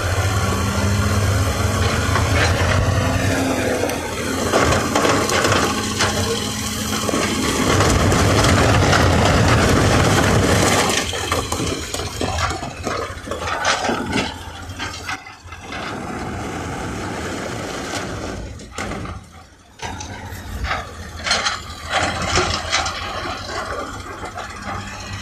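Heavy earthmoving machinery at work: a diesel engine runs steadily under scraping and rattling of metal and earth. The sound changes abruptly a couple of times.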